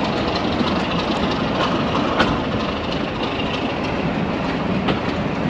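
Railway carriages rolling slowly along the track, heard from aboard: a steady running noise with scattered clicks and knocks from the wheels over the rail joints.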